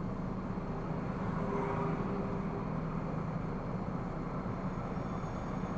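Steady noise of a car being driven, as picked up inside the cabin: a constant low engine and road drone.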